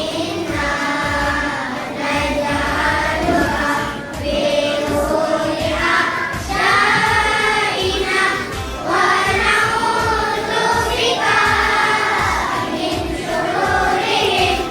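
A choir of voices, sounding like children, singing a song together over backing music with a steady beat.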